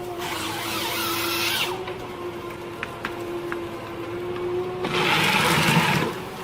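A machine running with a steady whine, and two bursts of rushing, hissing noise: one near the start and a louder one about five seconds in, each a second or more long, with a few faint clicks between.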